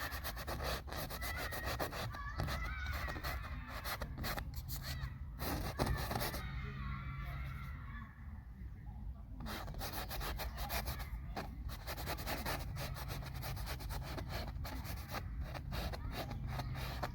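Paintbrush rubbing and scrubbing paint onto the painting surface in quick repeated strokes, with a short break about halfway through.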